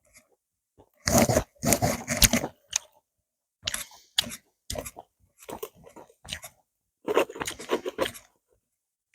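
Crunching and tearing noises close to the microphone in irregular bursts: a long stretch about a second in, scattered short ones in the middle, and another stretch near the end.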